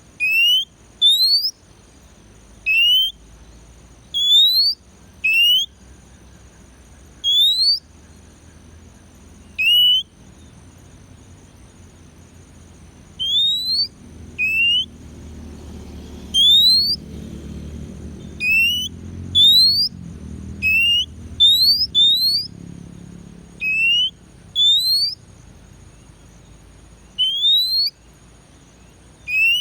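Oriental magpie-robin (kacer) repeating a single short, clear, rising whistle, about twenty times at uneven intervals. A faint low rumble swells and fades in the middle.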